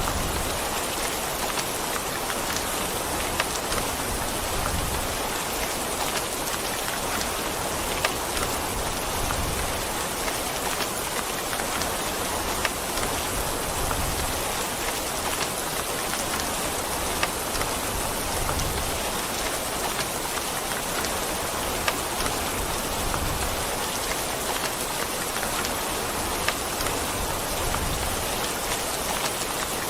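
Steady rain falling on a surface: an even hiss with scattered sharp drop impacts and a few soft low rumbles.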